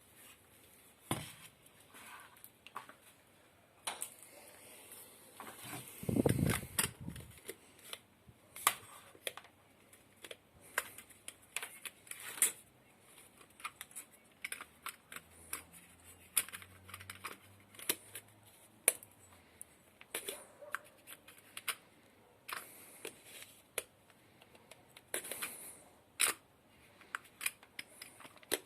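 Irregular clicks and taps of small hard parts being handled and fitted together, with a heavier knock about six seconds in.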